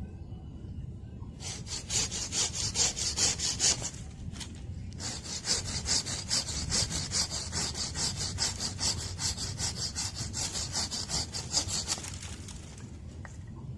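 Hand saw cutting through wood in quick, even back-and-forth strokes. There is a short pause about four seconds in, and the sawing stops near the end.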